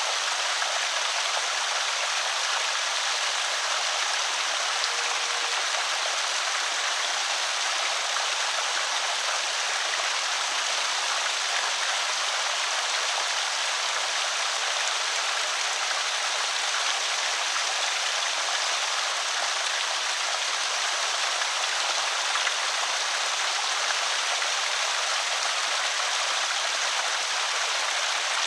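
Water running over a small creek spillway, a steady even rush and trickle.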